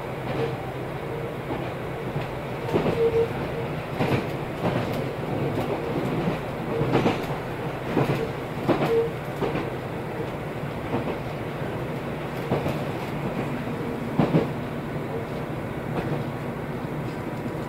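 JR Hokkaido KiHa 201 diesel railcar running, heard from inside the car: a steady rumble of wheels on rail with sharp clicks as the wheels cross rail joints every second or two.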